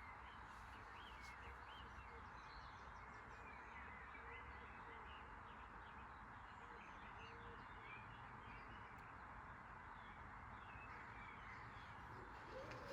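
Faint birdsong: many short, scattered chirps over a steady background hiss.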